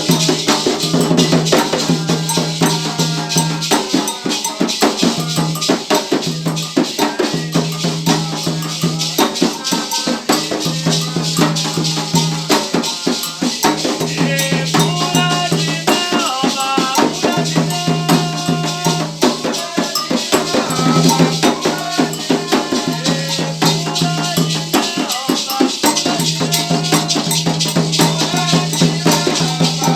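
Afro-Brazilian Candomblé ritual music: shaken rattles and drums playing a steady, dense rhythm, with voices chanting over it.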